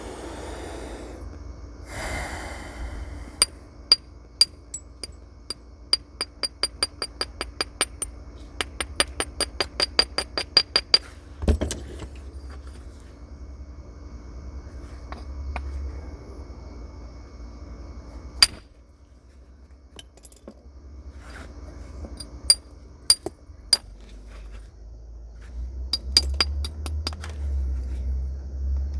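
Flintknapping on a flint nodule: scraping at first, then a long series of light, ringing taps of the knapping tool on the stone edge, quickening to about four a second in the middle. Two harder single strikes land about a third of the way in and again a little past halfway.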